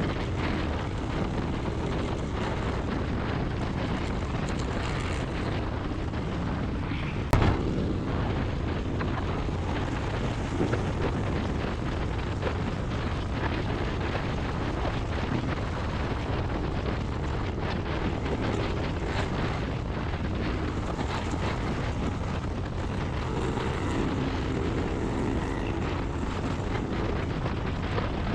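Motorcycle on the move, its engine running under a steady rush of wind on the microphone, with one sharp knock about seven seconds in.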